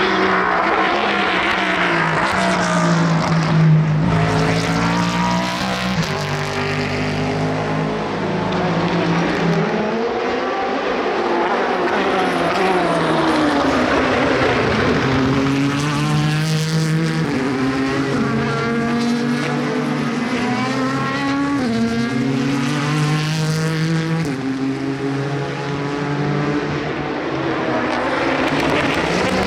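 Endurance race cars running past one after another, their engines stepping up and down in pitch through quick gear changes.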